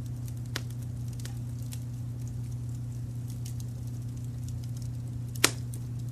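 Wood fire crackling with scattered small snaps and one loud pop about five and a half seconds in, over a steady low rumble of brown noise.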